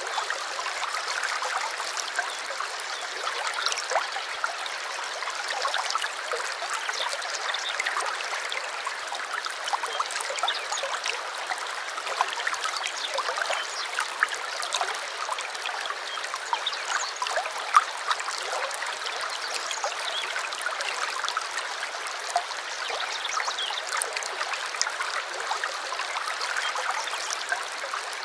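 A stream of water running and trickling steadily over the whole stretch, with many small sharp splashes scattered through the flow.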